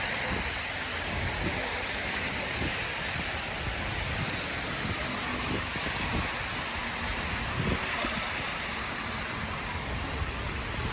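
Wind in a snowstorm gusting on the microphone, with low rumbles, over a steady hiss of city street noise.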